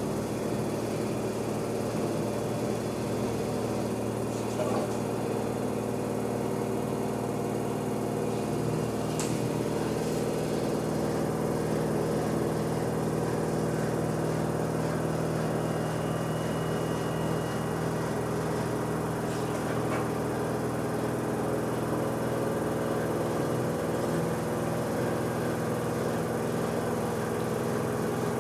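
LG washer-dryer spinning in its spin cycle: a steady motor hum made of several held tones, with a few faint ticks.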